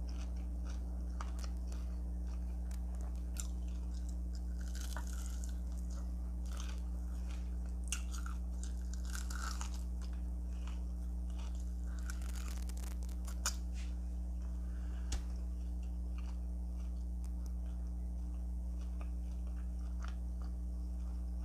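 Close-miked chewing and crunching of Flamin' Hot Cheeto fried chicken wings and fries, with scattered crackles and a few sharper clicks. A steady low electrical hum runs underneath.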